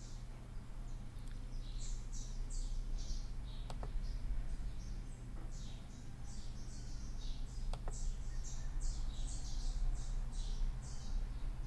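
Small birds chirping in quick runs of short, high, falling notes over a steady low hum, with a few single computer mouse clicks.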